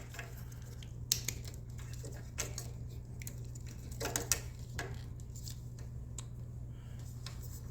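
Light clicks and rattles of plastic electrical connectors and wiring being handled and plugged into an LED headlight's harness, over a steady low hum.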